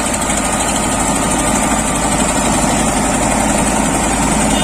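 Tractor diesel engine running steadily at a constant pitch, working to pull a loaded trolley out of mud.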